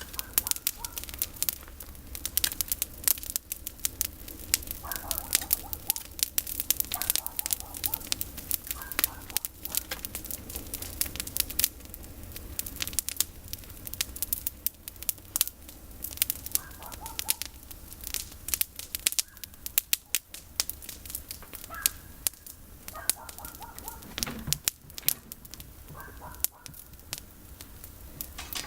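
Campfire of pruned olive branches crackling, with a dense run of sharp pops and snaps. Short bird calls come in several times.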